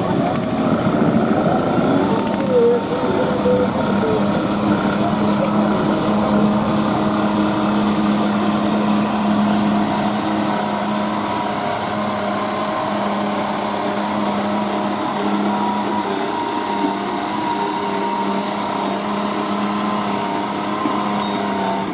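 Garden tractor engine running at a steady high speed, one sustained even engine note.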